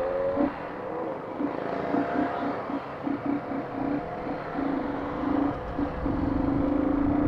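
Motorcycle engines running on the road, with a steady engine note that cuts in and out in quick short bursts, then holds longer near the end.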